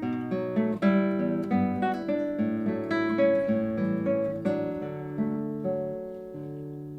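Solo classical guitar playing the closing bars of a piece: a run of plucked notes and chords, then a final chord struck about six seconds in and left to ring and fade.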